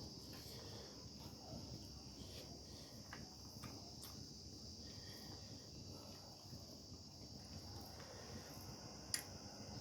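A steady, faint high-pitched drone of insects such as crickets, with scattered soft clicks and one sharper click about nine seconds in.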